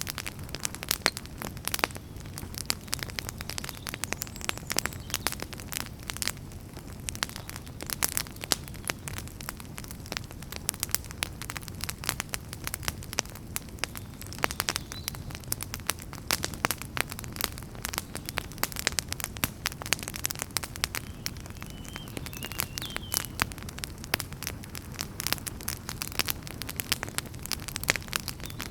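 Fire burning in a fireplace, crackling: frequent irregular sharp pops and snaps over a steady low rumble of the flames.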